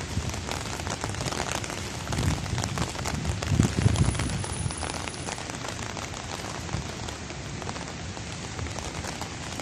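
Steady rain falling, with many fine drop ticks such as rain makes on an umbrella overhead. A louder low rumble swells between about two and four seconds in.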